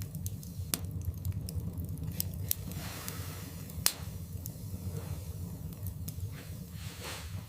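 Wood fire burning in a fireplace: irregular crackles and sharp pops of burning logs over a steady low rumble of the flames, with the loudest pop just before four seconds in.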